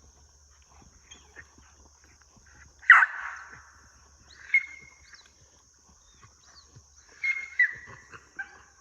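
A five-and-a-half-month-old puppy vocalising in excited, playful chatter. It gives a sharp yelp about three seconds in, then short high whines around the middle and again near the end.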